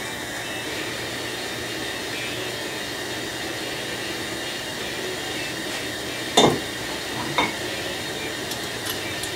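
Steady hiss of background noise, with two sharp knocks about a second apart a little past the middle and a few light clicks near the end, as distributor parts are handled and set down on a workbench.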